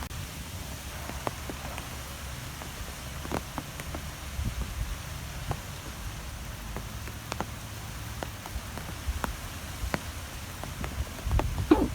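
Wind blowing steadily with a low rumble, with scattered light ticks and taps throughout and a louder cluster of them near the end.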